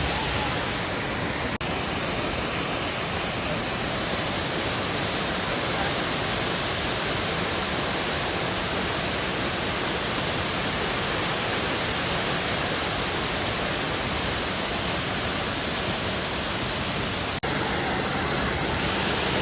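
A waterfall's steady rush of falling water, a dense even noise with two brief dips, about a second and a half in and near the end.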